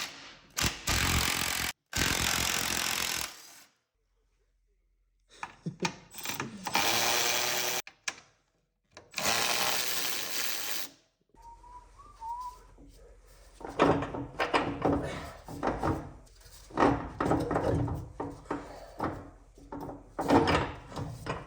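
A power tool runs in three steady bursts of a couple of seconds each, each cut off abruptly. It is followed by a long string of irregular metallic knocks and clanks from tools working on the suspension parts.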